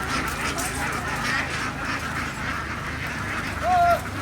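A large flock of domestic ducks quacking and chattering all together, with one louder, drawn-out call near the end.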